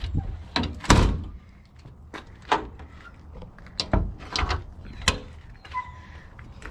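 A series of clunks and knocks from a service truck's compartment doors and latches being handled, the loudest about a second in.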